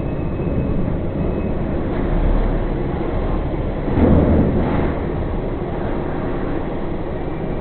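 Truck running on the road: a steady engine and road rumble, with a louder rush of rumble and hiss about four seconds in that lasts about a second.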